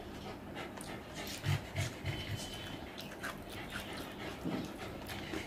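Close-up eating sounds: chewing a mouthful of rice and chicken curry with wet clicks and smacks, and fingers squishing rice into the curry gravy on the plate. A few soft low thumps come about one and a half to two and a half seconds in.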